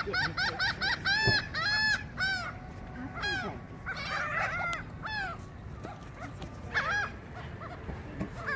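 Seagulls calling: a quick run of short, arched, honking calls over the first two seconds, then scattered single and double calls.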